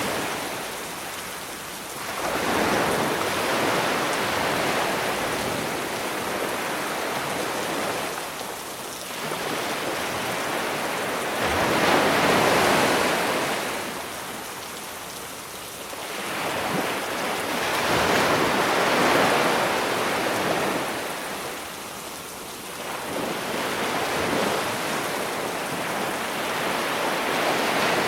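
Sea waves breaking on a beach, swelling and falling back every several seconds, over a steady hiss of rain.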